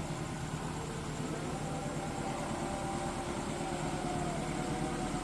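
Steady engine hum, a low drone with a few held tones and no sudden events.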